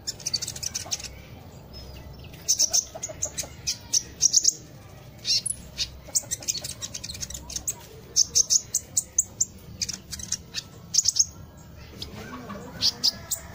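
A small songbird, the freshly caught konin, chirping over and over: short sharp high chirps in quick clusters of several at a time, with brief gaps between clusters.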